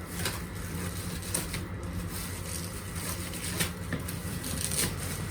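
Rustling and light knocks of packaging being handled while the cookware box is unwrapped, over a steady low hum.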